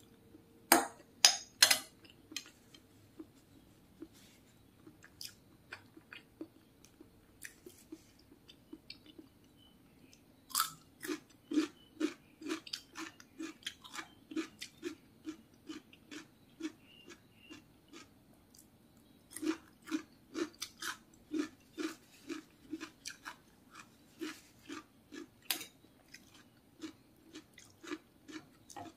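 Close-up mouth sounds of a person chewing soft siomay with peanut sauce: wet, regular chews about two to three a second, coming in runs with quieter pauses. A few sharp clicks come in the first two seconds.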